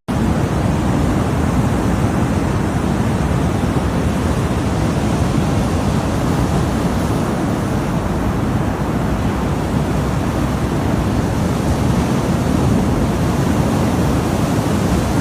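Steady, loud rushing noise, heaviest in the low end, starting abruptly at a cut and holding unchanged.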